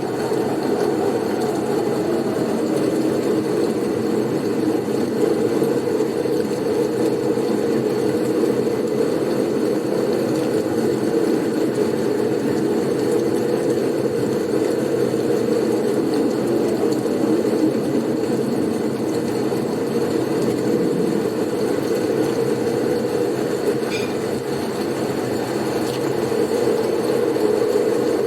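Blizzard wind blowing steadily as a deep, even rush, with a faint falling howl in the first few seconds.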